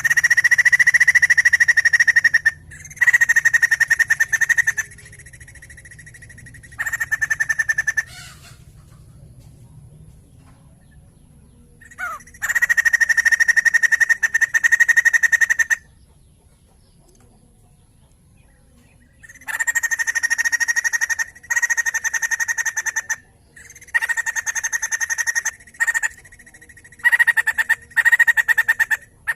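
White-crested laughingthrush calling in about ten bouts of rapid, buzzy chattering, each lasting one to three seconds with short silences between, the longest bout coming about halfway through.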